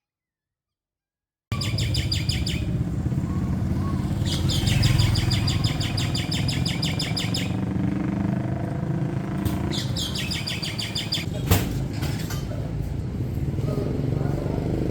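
Rapid chirping trills in three bursts over a steady low rumble, after a moment of dead silence. A single sharp click falls about two-thirds of the way through.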